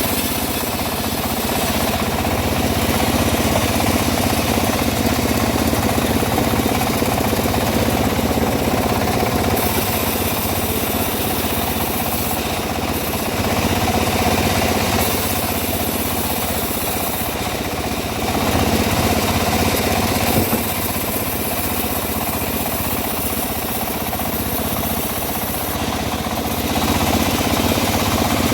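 Engine of a homemade bandsaw mill running steadily while the blade saws teak wood. The level rises and falls a little every few seconds.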